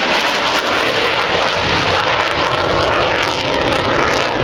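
F/A-18 Hornet jet in flight: its twin turbofan engines make a loud, steady rush of noise, with the low rumble filling in from about a second in.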